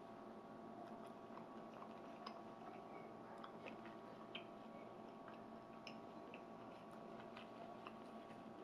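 Faint closed-mouth chewing of a plant-based burger: scattered small wet mouth clicks over a steady low hum.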